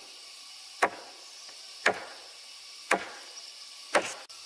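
Wood being chopped with a blade: four sharp blows about a second apart, each ringing off briefly.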